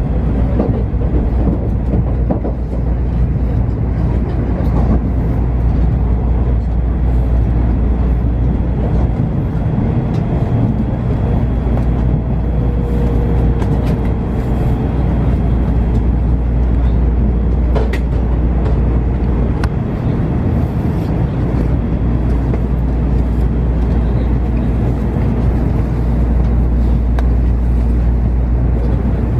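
Tokaido Shinkansen train running, heard inside the passenger cabin: a steady low rumble under an even rushing noise, with one sharp click about two-thirds of the way through.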